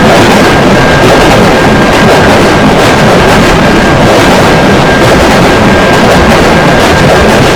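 Train passing at a railroad crossing, very loud: a continuous dense rumble and rail noise, with a thin steady high tone running under it.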